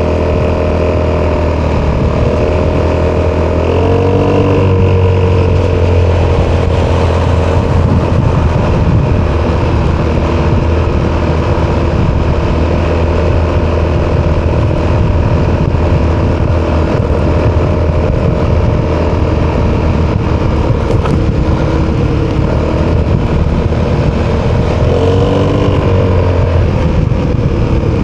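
Italjet Dragster 200 scooter's single-cylinder four-stroke engine running through an Akrapovic exhaust at steady revs, with two brief rises and falls in revs, about four seconds in and near the end.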